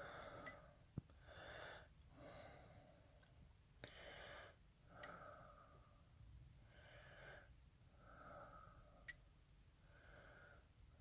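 Near silence, with faint soft sounds about once a second and a few short clicks.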